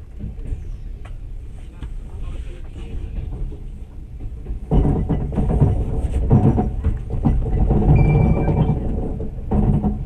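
Passenger train running with a low, steady rumble; about halfway through, louder music starts over it.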